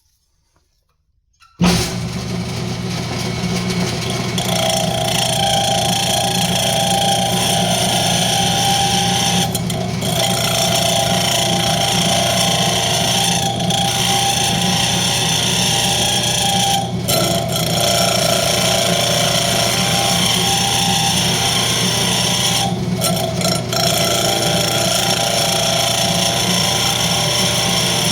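Wood lathe running steadily, starting suddenly about a second and a half in, with a parting tool cutting a rosewood tenon. The sound dips briefly a few times.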